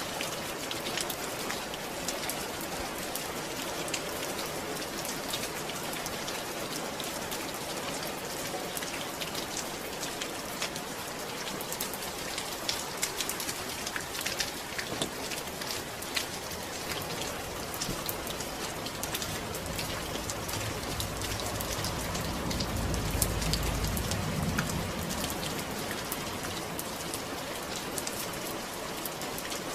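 Steady rain falling, a dense patter of drops hitting a surface. A low rumble swells and fades about two-thirds of the way through.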